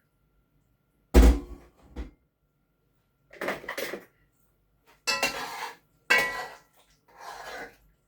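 Serving utensils clattering against pots and plates as food is dished up. A sharp knock about a second in is loudest, followed by five shorter scraping clatters, some with a brief metallic ring.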